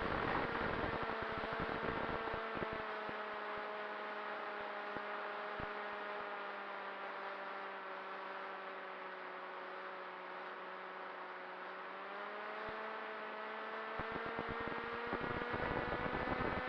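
FPV drone's electric motor and propeller whining, heard from the onboard camera. The pitch sinks slowly as the throttle eases back, then climbs again near the end, with wind buffeting the microphone at the start and end.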